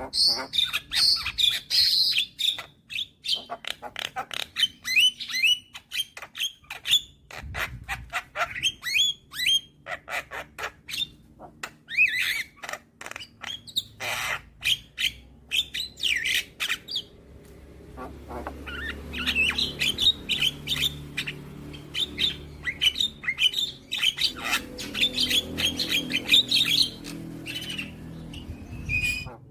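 Young Javan myna (jalak kebo) calling in fast runs of sharp clicks, chirps and harsh squawks, with short breaks between runs. From about eighteen seconds in, a low rumble sits underneath.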